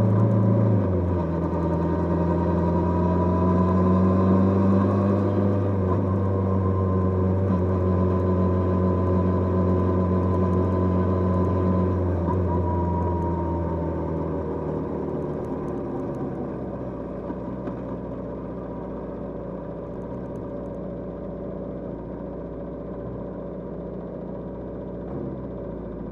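Kawasaki GPZ550's air-cooled inline-four engine running on the move. Its note drops about a second in, then holds steady. From about halfway it falls away in loudness and pitch to a lower, steady run as the bike slows.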